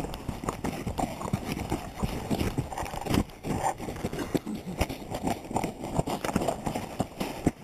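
Quick, irregular footsteps crunching and rustling through dry leaf litter.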